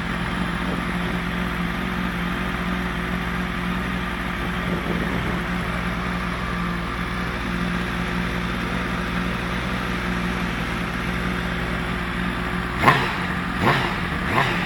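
Honda Fireblade's inline-four engine idling steadily through an aftermarket Yoshimura exhaust, then three quick throttle blips near the end, the revs rising sharply and dropping back each time.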